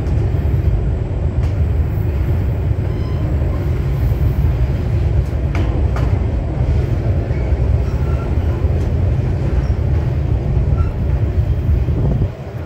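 Passenger train rolling along, heard from on board: a steady low rumble from the cars and wheels, with a couple of faint clicks about five to six seconds in.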